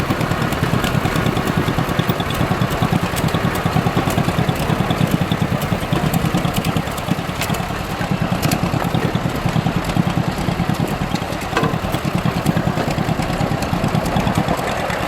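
Tractor engine running at a steady speed while being driven, with a rapid, even beat of firing pulses.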